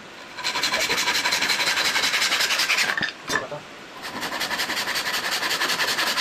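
Saw cutting through wood in a fast, even stroke rhythm. It stops for about a second near the middle, then starts again.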